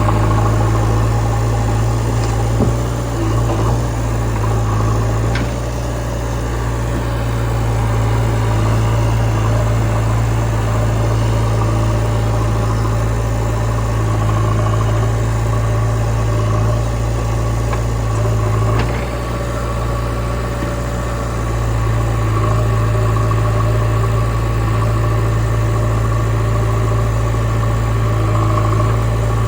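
Heavy diesel engine of a backhoe loader or tractor running steadily, its low hum easing off briefly twice, with a few faint knocks.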